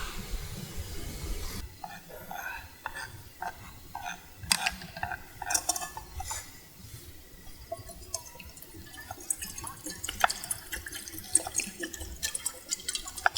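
Water gurgling and splashing in short irregular spurts, with many scattered sharp clicks.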